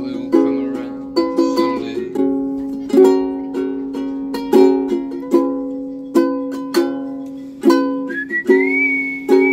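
Strummed chords on a small string instrument, a fresh strum every half second or so, each ringing and fading. Near the end a high whistled note slides up and holds.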